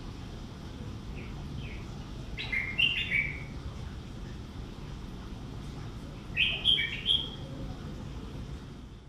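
A small bird chirping in three bursts of quick chirps that step down in pitch, the first faint about a second in, the others at about two and a half and six and a half seconds, over a steady low background hum.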